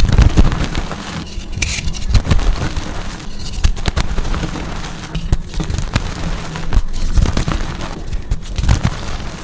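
Blocks of gym chalk being crushed and crumbled, a dense crunching crackle that swells and eases in several waves.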